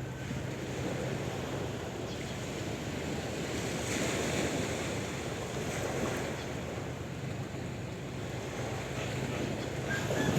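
Sea waves washing in a steady rush that swells and eases, louder about four and six seconds in, with wind on the microphone.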